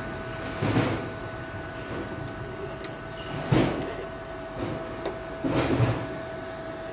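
Hands working the wire feed of a mini MIG welder while threading welding wire: a few brief scrapes and knocks about a second in, halfway through and near the end, over a steady faint hum.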